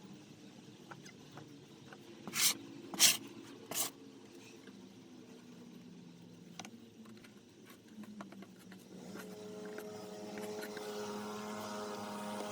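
Three short, sharp clattering noises in quick succession, then the steady hum of a motor that grows gradually louder from about nine seconds in.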